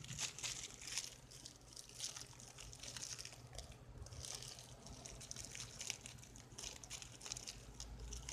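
Faint, irregular crinkling and small ticks of a plastic bag of snap poppers being handled and pulled at to open it.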